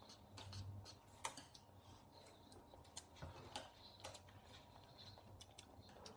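Faint, irregular clicks and taps of a spoon against a takeaway food container while eating, over a faint low hum of room tone.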